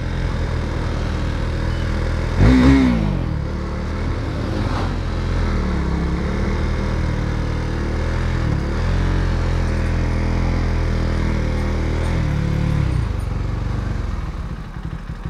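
KTM Duke 390's single-cylinder engine running as the bike slows down, with a sharp throttle blip about two and a half seconds in and several smaller rev swells after it. The engine cuts off at the very end as the bike comes to a stop.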